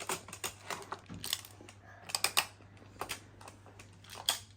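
Plastic magnetic building tiles clicking and clattering as they are handled, snapped together and knocked against each other in a quick, irregular run of sharp clacks.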